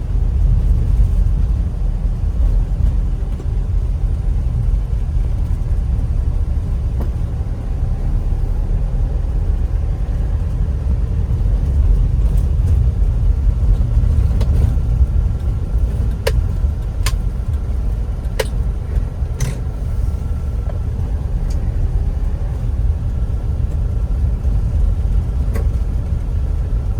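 Steady low rumble of a moving vehicle, with a few faint clicks about halfway through.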